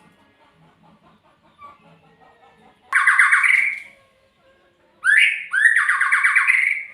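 A murai songbird giving two loud, harsh, rasping calls. The first comes about three seconds in and lasts about a second. The second starts about five seconds in with two quick rising sweeps and runs about two seconds.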